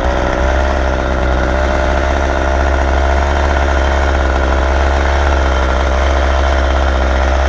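Bucket truck engine running steadily at a constant speed, with a steady whine above its low hum.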